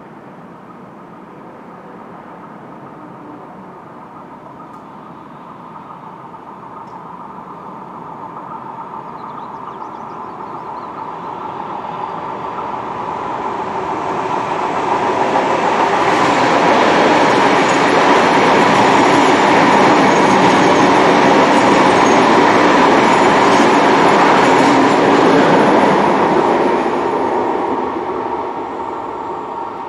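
Train passing on the rails: it builds up as it approaches, runs loudest for about ten seconds as it goes by, then fades away near the end, with a steady high tone over the noise of the wheels.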